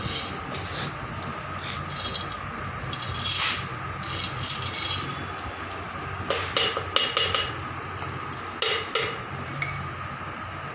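Irregular short scraping and rubbing strokes, a hand tool worked against a part, clustered more thickly between about six and nine seconds in, over a steady faint hum.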